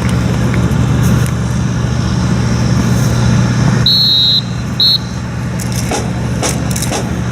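A steady low engine hum, with two short high-pitched tones, one about four seconds in and a briefer one about a second later.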